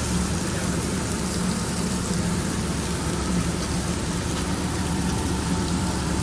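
Steady mechanical hum of food truck kitchen equipment running, with an even hiss over it that does not change.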